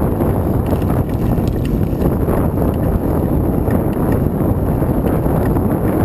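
Heavy wind noise buffeting the microphone: a loud, steady low rumble.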